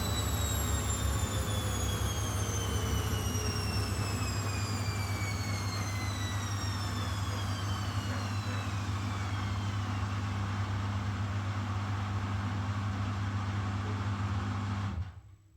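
Washing machine spinning down after a spin cycle: the motor's whine falls steadily in pitch and fades away over about ten seconds, over a steady low hum that cuts off suddenly near the end.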